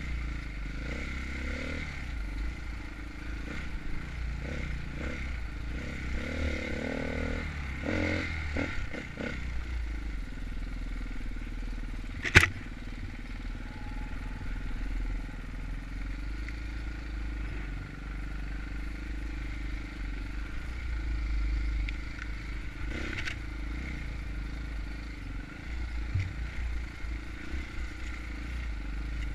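Dirt bike engine running on a trail ride with clattering from the bike. One sharp, loud knock a little under halfway through.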